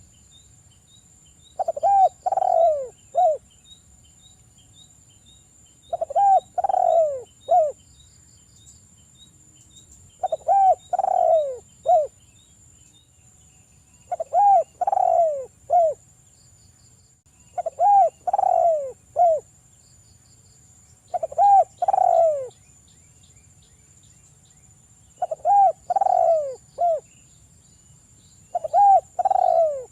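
A spotted dove (derkuku) cooing: a three- to four-note phrase with a short last note, repeated about every four seconds, eight times. Faint insect ticking and steady high insect tones run underneath.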